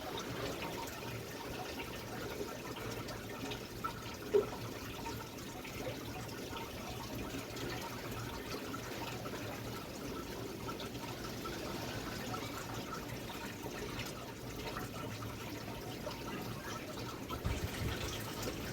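Strong wind blowing steadily ahead of a rainstorm, a constant rushing noise, with one brief knock about four seconds in.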